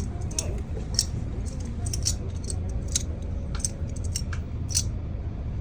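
Scattered sharp clicks and ticks, about ten of them at irregular intervals, over a steady low rumble.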